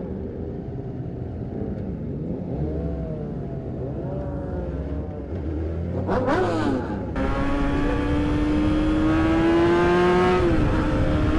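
Sport-bike engines revving, the pitch rising and falling with throttle and gear changes. About seven seconds in, wind noise jumps up and a single engine note climbs steadily under hard acceleration, then drops at a shift near the end.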